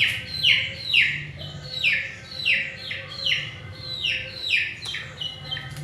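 A bird calling over and over, about two calls a second, each call a short note sliding down in pitch.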